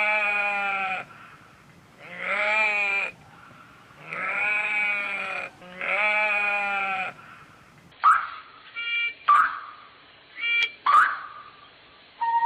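Sheep bleating: four long, wavering bleats about two seconds apart, followed by several short, sharp calls.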